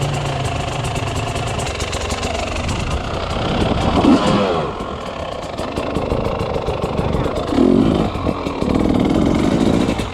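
Off-road motorcycle engine running, its revs rising and falling in throttle blips about four seconds in and again in the last few seconds.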